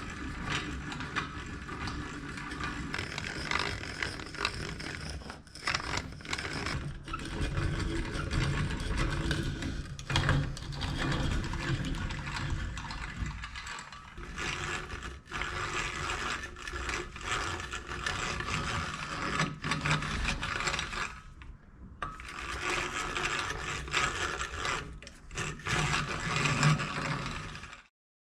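Restored French hand drill (chignole) being cranked, its gears turning with a steady mechanical whirring and rattle. There is a short pause about three-quarters of the way through, and it stops near the end.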